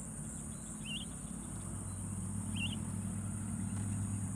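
Outdoor rice-field ambience: a steady high-pitched insect trill over a low steady hum, with short wavering bird chirps twice, about a second and then two and a half seconds in.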